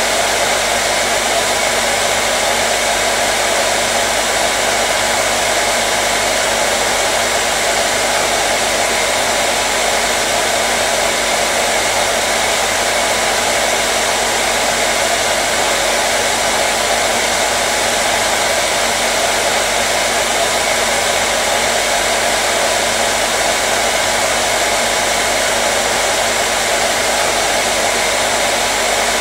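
Hair dryer running steadily: a constant rush of blown air over a motor's hum, with no change in speed or setting.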